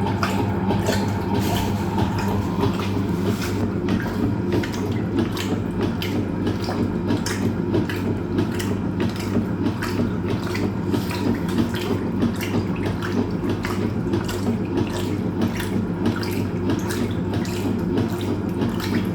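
Hoover Automatic 820 washing machine in its wash cycle: a steady motor hum under the agitator churning water and clothes in the drum, with constant swishing and sloshing.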